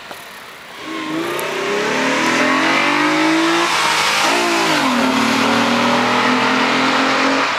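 2002 Acura TL Type-S's 3.2-litre V6 with a cold air intake, accelerating hard as the car flies past. The engine note grows loud from about a second in and climbs in pitch. It breaks briefly about four seconds in, then runs at a lower, steady pitch before fading near the end.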